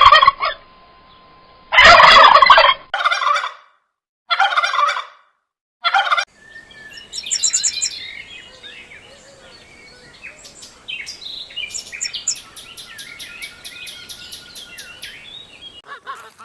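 Turkey gobbling in about five loud, rattling bursts over the first six seconds, followed by quieter, busy chirping of small birds.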